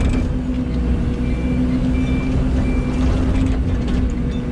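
Excavator's diesel engine running steadily at working speed, with a constant low hum.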